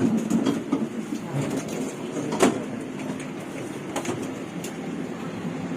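Railway station platform ambience: a low steady hum and general background noise, with a single sharp knock about two and a half seconds in.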